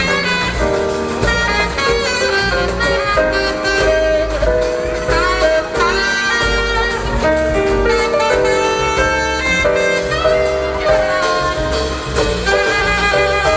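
Live small jazz band playing, a saxophone carrying the melody over bass, drums and piano.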